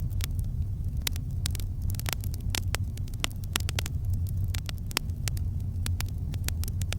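Campfire burning: frequent sharp crackles and pops of the wood, several a second and uneven, over a steady low rumble.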